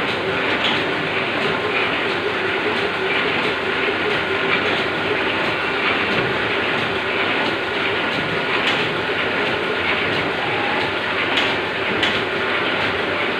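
Machinery running with a steady clatter and a hum, with light clicks now and then.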